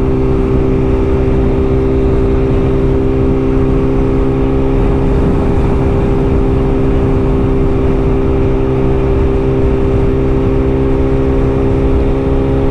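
Inline-four sportbike engine holding a steady note while cruising at constant speed, with steady wind rush underneath.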